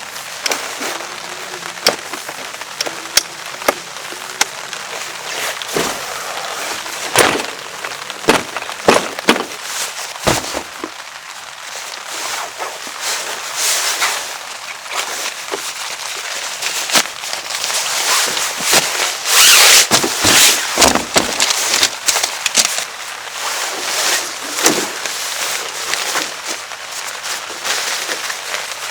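Steady rain hiss with many irregular sharp knocks and clicks over it, busiest and loudest about two-thirds of the way through.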